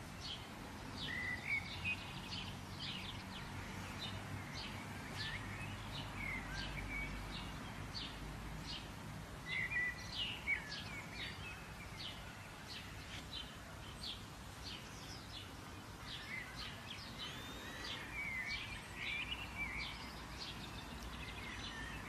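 Outdoor ambience of several small birds chirping and calling in quick short notes, some sliding in pitch, over a steady low rumble of background noise.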